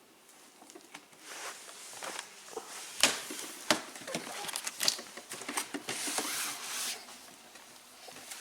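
Packaging being opened by hand: rustling, with a dozen or so scattered sharp clicks and taps, the loudest about three seconds in.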